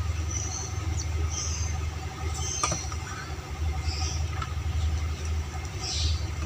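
A steady low rumble of background machinery runs throughout. Over it come several short, faint high chirps from a sooty-headed bulbul fledgling, with one sharp click near the middle.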